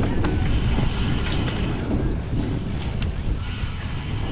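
Wind buffeting the microphone of a camera riding on a cyclocross bike at race speed, a steady low rumble with a few light clicks.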